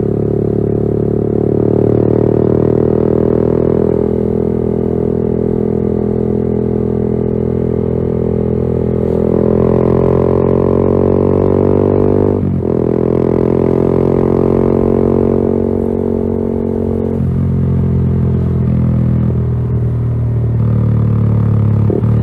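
Yamaha XSR 155's single-cylinder engine through a LeoVince GP Corsa Evo exhaust, running under load with its note climbing slowly. About twelve seconds in the note breaks sharply, as at a gear change, then runs on, shifting again near the end.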